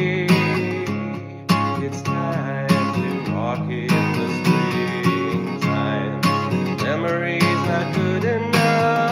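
Acoustic guitar strummed in a steady rhythm, with a capo at the fourth fret, ringing full chords.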